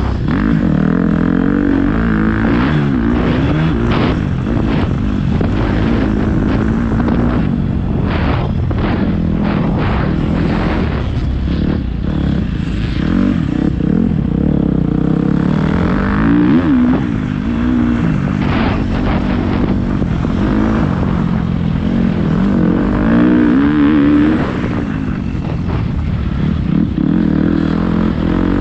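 Motocross bike engine revving up and falling back again and again as it is ridden round the track, with a cluster of short knocks near the middle.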